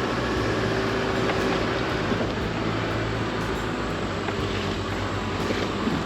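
Chevy Colorado ZR2 AEV Bison pickup driving along a trail: its engine runs steadily under a constant wash of road noise.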